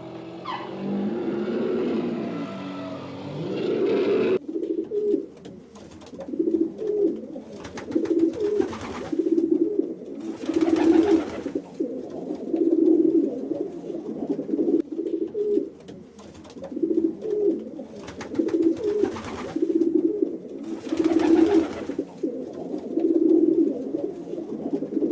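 A bird cooing: short, low calls repeated roughly once a second, with a few brief rustling noises among them. For the first four seconds or so a different, muffled sound plays before an abrupt cut.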